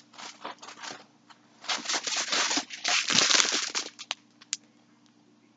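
Packaging rustling and crinkling in irregular bursts as a skein of yarn is taken out, loudest through the middle, with a few light clicks near the end.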